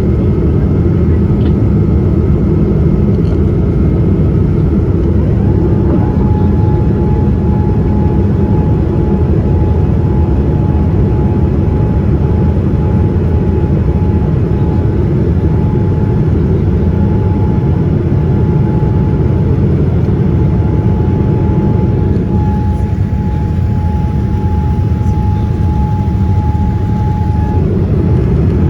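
Boeing 787-9 cabin noise in flight, most likely during the climb: a loud, steady rumble of jet engines and airflow. A thin steady whine comes in about five seconds in.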